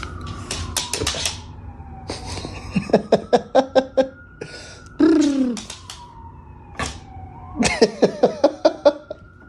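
A siren wailing slowly down and up, with two runs of quick, rapidly repeated voiced calls and one falling, drawn-out call about five seconds in.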